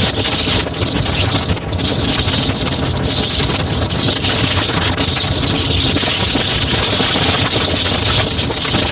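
Motorcycle running at a steady pace while riding, its engine mixed with wind and road rush in a loud, even noise.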